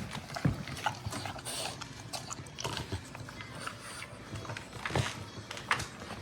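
A dog eating from a raised feeder's stainless steel bowl, with irregular clinks and knocks against the bowl.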